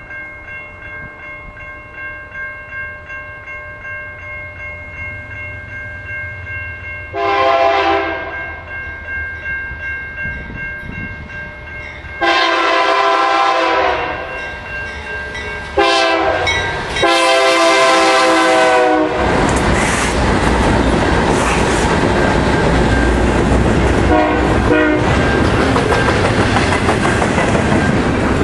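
Freight locomotive air horn sounding the grade-crossing signal of two long blasts, a short and a long. The train then passes with the rumble and clickety-clack of double-stack container cars on the rails, and a brief horn sound about three-quarters of the way through.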